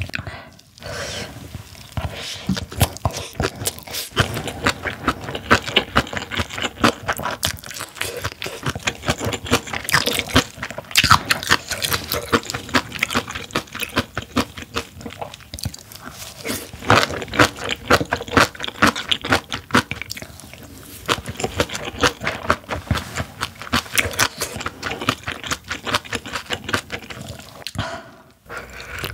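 Close-miked chewing of spicy kimchi and rice: many quick, wet crunches in an uneven stream.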